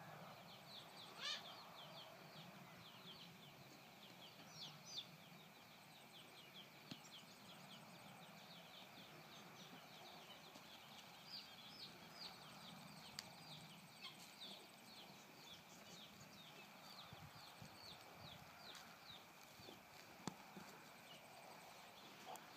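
Faint outdoor quiet with small birds chirping in long runs of short, high notes, a few a second, and one or two soft knocks.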